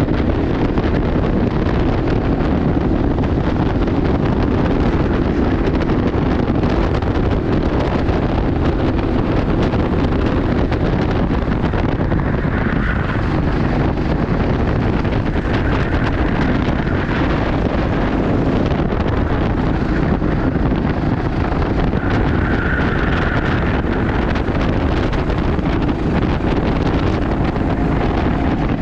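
Racing kart running at speed, its engine noise buried under heavy wind buffeting on the microphone. A few brief higher-pitched sounds break through along the way.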